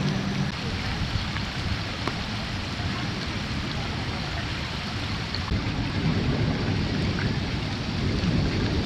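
Torrential rain pouring steadily with a dense hiss, over a low rumble.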